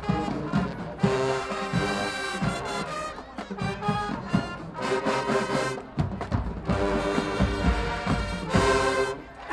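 High school marching band playing a brass-heavy tune: loud trombone and trumpet chords in punched phrases with short breaks between them, over drum hits.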